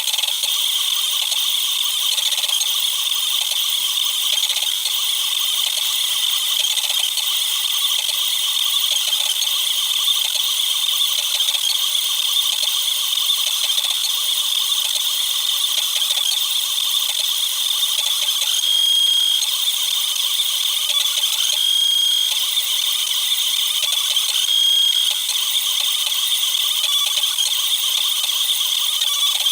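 Cubify Cube 3D printer's motors and moving print head, sped up tenfold, making a continuous fast rattling chatter. Short high tones stand out three times in the second half.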